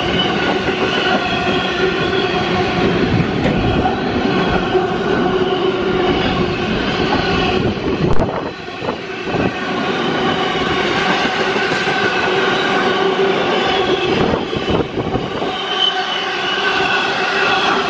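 Freight train wagons passing at speed: a steady rumble of wheels on rail with a continuous ringing squeal from the wheels, and a brief lull about halfway through.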